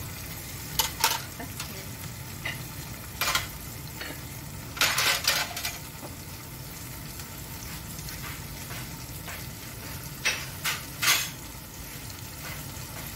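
Sambal tumis with squid frying in a pan with a steady sizzle, just seasoned with salt and turmeric. Short clinks and knocks of utensils and dishes come about a second in, near the middle and a few more near the end.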